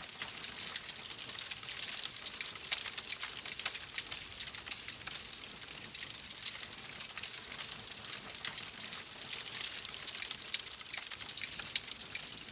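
Wood fire crackling in a fireplace: a steady soft hiss with many small, irregular pops and snaps.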